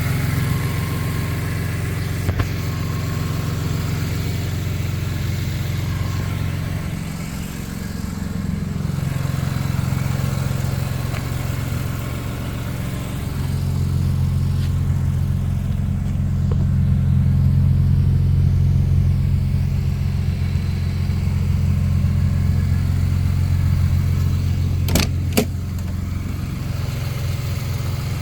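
BMW S54 3.2-litre straight-six idling through a full titanium exhaust, its steady low note shifting slightly a couple of times. Two short sharp clicks near the end.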